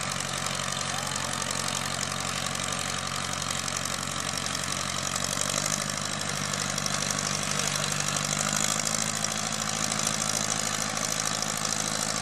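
Antique tractor engine running steadily at low revs, its pitch rising a little about halfway through.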